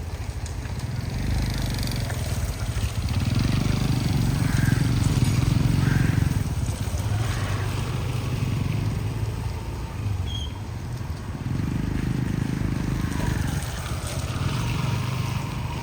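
Heavy truck's diesel engine running under load, with a deep rumble that swells twice as the throttle is opened.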